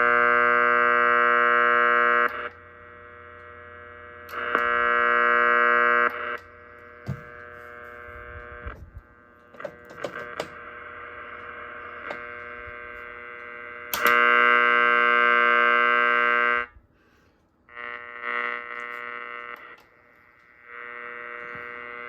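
Marconi Atalanta marine receiver's loudspeaker putting out harsh buzzing interference, the noise that switch-mode power supplies and LED lights make on the low-frequency bands. The loud buzz comes in three spells of about two seconds each and a weaker fourth near the end, dropping between them to a quieter hiss and hum with scattered clicks.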